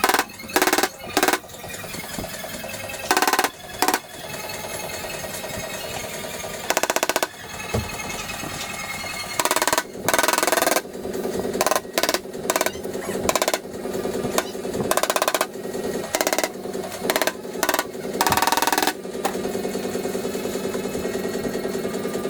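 MIG welder laying short tack and stitch welds on car-body sheet steel: a string of irregular bursts of crackling buzz, each well under a second, over a steady hum between them.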